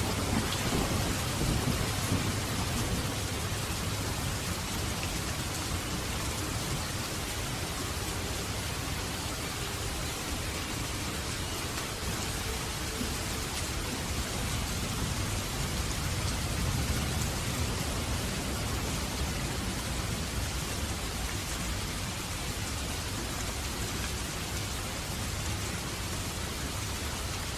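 Steady hiss of rain with a low rumble underneath, unchanging throughout.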